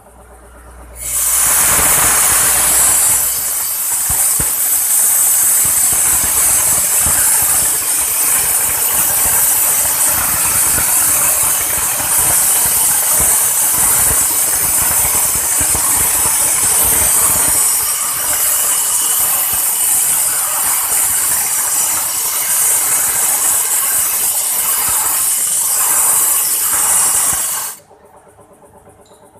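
A loud, steady hiss of a pressurized jet, with fast rattling clicks beneath it. It starts abruptly about a second in and cuts off abruptly near the end.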